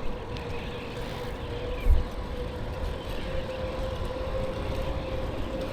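E-bike riding along, its motor giving a steady whine under low wind rumble on the microphone, with one low thump about two seconds in.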